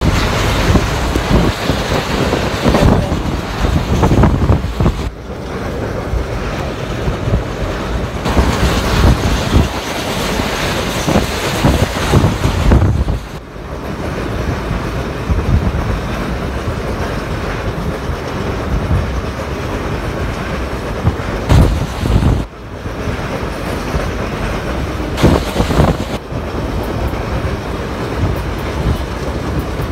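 Passenger train running at speed, heard from aboard: a steady rumble and rattle of the coaches on the rails, with irregular heavy low surges.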